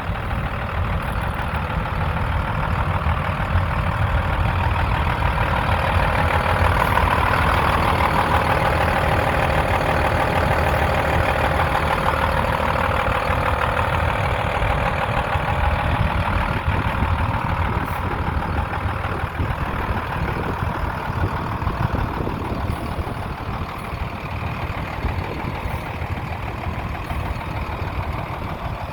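2005 International 7400 diesel truck engine idling steadily, its sound a little louder for several seconds around the middle.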